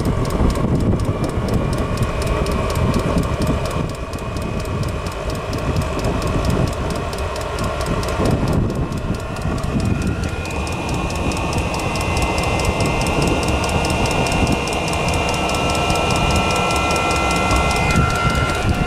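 Chinese diesel air heater running while it burns off oven-cleaner residue: a steady combustion rumble under a thin blower-fan whine that steps up in pitch about ten seconds in, with a fast, even ticking. Wind buffets the microphone.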